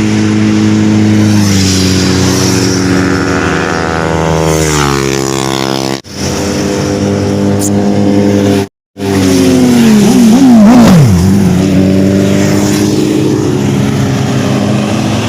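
Superbike engine running at steady revs, then the revs fall away. Later the throttle is blipped a few times in quick succession, revs rising and dropping, before it settles into a steady run again.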